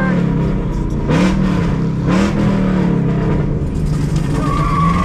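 Car engine running with short rev blips over a steady idle, each rising in pitch then falling back, about once a second early on. A high steady whine comes in near the end.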